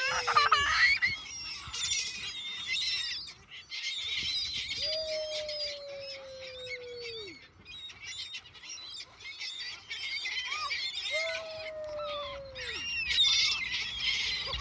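A flock of seagulls calling, many overlapping squawks and cries at once, with two long, slowly falling calls standing out over them.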